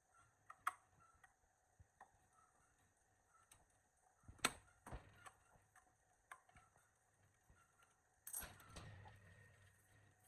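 Quiet handling sounds: scattered light clicks and knocks, the sharpest about four and a half seconds in, and a short rustle about eight seconds in that fades away.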